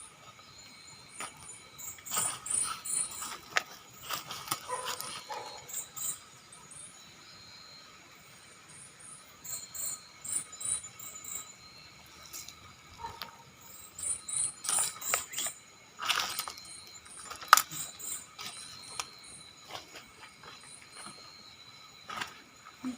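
Night insects chirping in short, high-pitched groups over a steady insect whine, with bursts of crunching footsteps through dry leaves and undergrowth.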